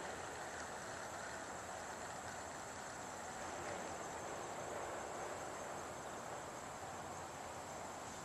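Steady outdoor background hiss with a constant high-pitched drone of insects.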